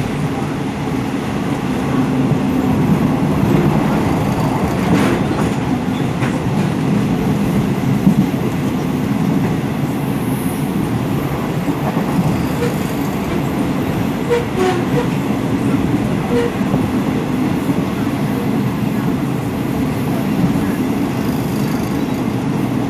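Steady rumble of a moving passenger train heard from inside the coach, wheels running on the rails with a few faint clicks.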